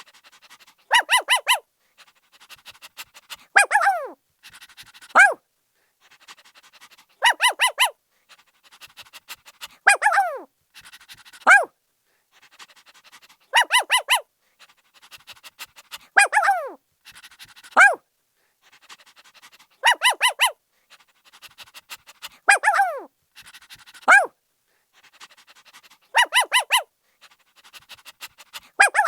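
Puppy barking in a repeating pattern: a quick run of high yaps, a yelp falling in pitch, then a single bark, coming round about every six seconds.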